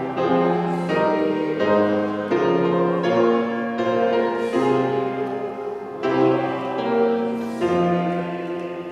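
Keyboard instrument playing slow, sustained chords that change about once a second, growing quieter near the end.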